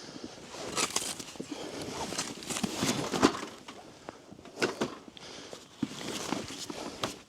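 Footsteps crunching through deep fresh snow, in uneven clusters of steps.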